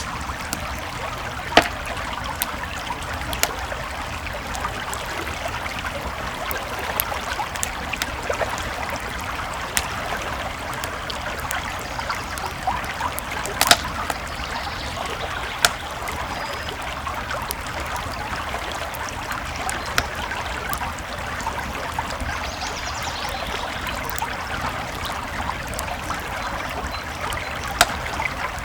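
A creek flowing steadily alongside a crackling campfire, with several sharp pops from the fire standing out, the loudest about halfway through.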